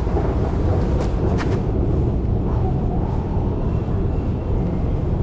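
Steady low rumble of passing vehicles in a city street.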